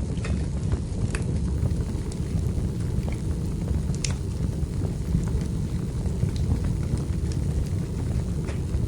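Wood fire burning in a fireplace: a steady low rumble of flames with irregular sharp crackles and pops from the burning logs, one of the louder pops about four seconds in.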